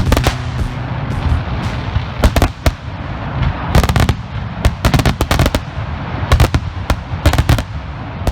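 A 500-gram consumer fireworks cake firing its breaks: many sharp cracks and bangs, single and in quick clusters, over a steady rumbling hiss.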